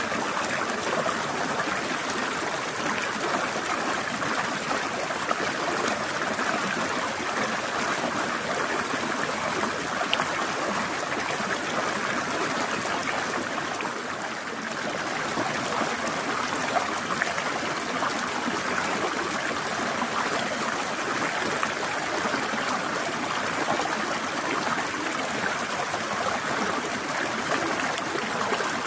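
Mountain stream trickling steadily, a continuous rush of flowing water with a slight dip in level about halfway through.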